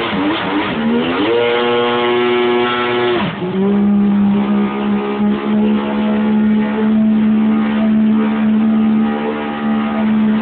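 A Yamaha GP1200R jet ski's two-stroke three-cylinder engine running hard. Its pitch wavers, then climbs about a second in and holds. Just after three seconds it drops briefly, then settles into a steady, high, sustained pitch for the rest.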